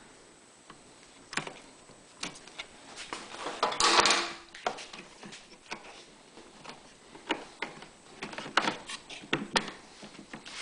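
Scattered clicks, knocks and rustles of hands working a rubber fuel hose and its fittings on a generator, with one louder scraping rush lasting about a second, about four seconds in.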